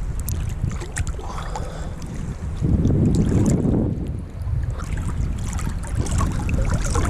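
Wind buffeting the microphone over moving water, a steady low rumble with small splashy clicks, swelling into a louder rush for about a second some three seconds in.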